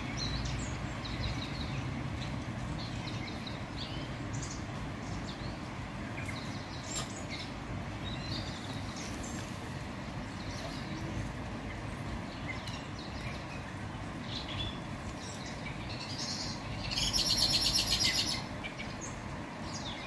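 Small songbirds chirping, with short scattered calls over a steady low background rumble. Near the end a louder, rapid rattling trill runs for about a second and a half.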